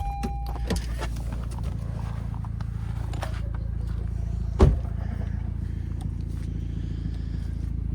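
2012 Honda Civic's four-cylinder engine running steadily through a DC Sports performance muffler, a low even rumble with the exhaust leak ahead of the muffler repaired. A short beep sounds at the start and a single thump about four and a half seconds in.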